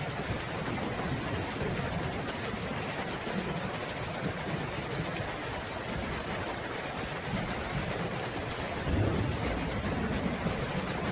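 Steady rain falling, with low rolling thunder rumbling underneath that swells briefly near the end.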